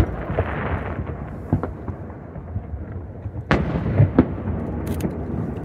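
Aerial firework shells bursting: a run of booms, with a hiss fading in the first second and the loudest booms coming close together about three and a half to four seconds in.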